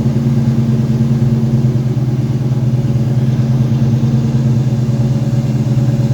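1987 Ford Mustang 5.0 LX's 5.0-litre V8 idling steadily during warm-up after a cold start.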